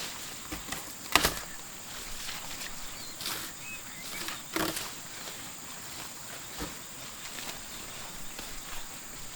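Outdoor ambience: a steady high insect drone with scattered clicks and knocks. The loudest, sharp knock comes about a second in, and another about halfway through.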